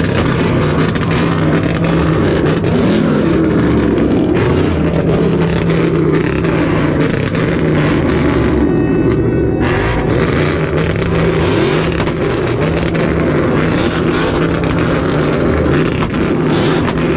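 Loud, steady car engine noise. The sound briefly turns muffled about nine seconds in.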